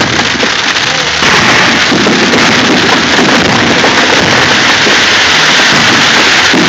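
Firework display crackling in a dense, continuous hiss like heavy rain, louder from about a second in.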